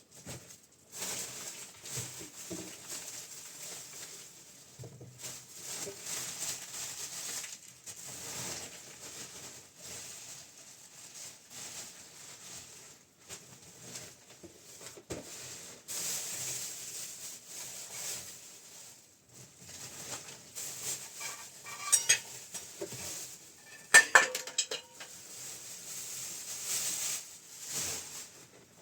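Ongoing scraping and clattering of handled objects, with a few sharp ringing metallic clinks about two-thirds of the way through, like metal pots or utensils knocking together.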